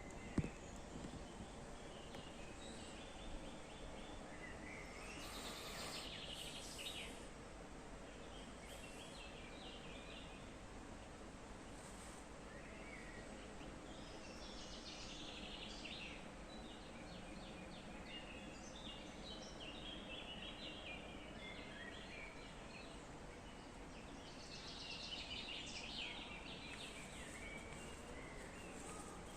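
Small birds chirping and singing in several short bouts over a faint steady background hiss.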